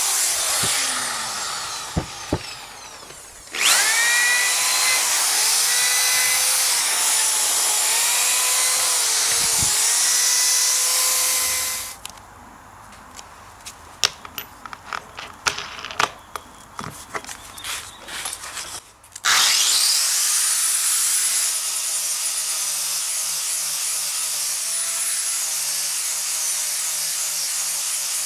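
Handheld electric power tool running loud, its motor whine dipping in pitch again and again as it is pressed into the work. It winds down near the start, starts up again a few seconds in and runs until about the middle. Then come scattered clicks and knocks, before it spins up again and runs steadily.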